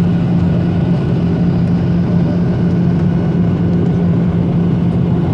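Steady, loud cabin drone of a Ryanair airliner on its landing approach, engine and airflow noise with a strong low hum that holds level throughout.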